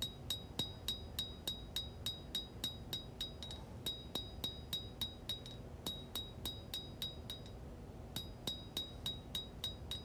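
Forging hammer striking hot 1095 high-carbon blade steel on an anvil, in steady rapid blows of about three a second, each with a short metallic ring. The blows pause briefly twice, as the bevel and distal taper are hammered in.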